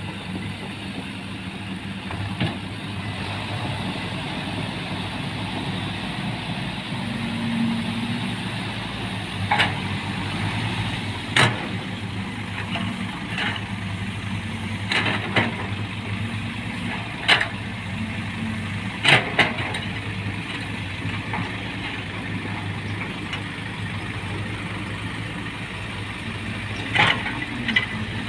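Heavy vehicle's engine running steadily at low revs, with sharp knocks or clanks every few seconds.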